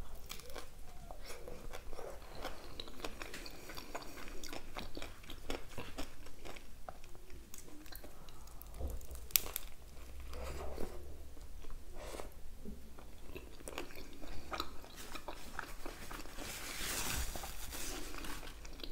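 Close-miked biting and chewing of a homemade chicken shawarma wrap, with many small wet crunches and clicks, and a short rustle near the end.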